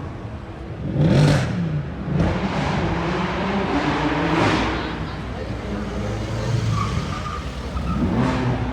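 Sports car engines revving hard, with three loud surges about 1, 4.5 and 8 seconds in, over the noise of a crowd.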